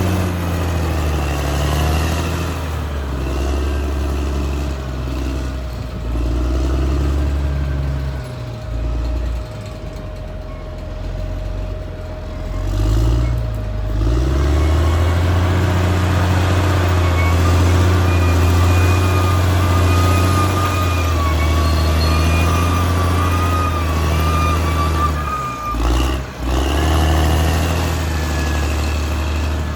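Caterpillar D6R XL bulldozer's diesel engine working under load, its note rising and sagging as the load changes. From about halfway a wavering high whine rides over the engine, and the engine briefly drops away near the end.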